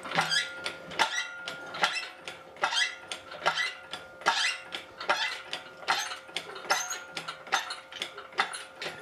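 Hoist ratchet clicking in a steady rhythm, one stroke of clicks about every 0.8 s, as a load is lifted, over a faint steady hum.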